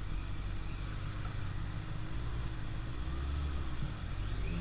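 Motorcycle engine running while riding, over a steady low rumble; its pitch rises and falls a little in the second half.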